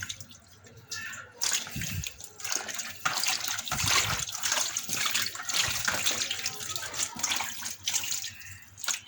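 Water hyacinth stems being washed by hand in water: irregular splashing and sloshing, busiest from a second or two in until near the end.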